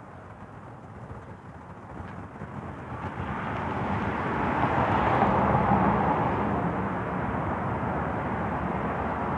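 Road traffic going by: the tyre and engine noise of a passing vehicle swells from about three seconds in, is loudest around the middle, and stays fairly loud to the end.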